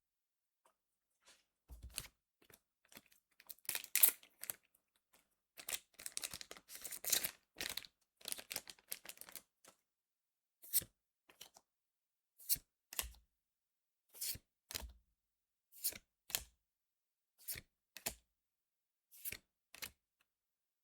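Foil wrapper of a Cardfight!! Vanguard booster pack being torn open and crinkled, loudest about four seconds in. From about halfway, the cards are slid off the stack one at a time, each making a short swish about every second.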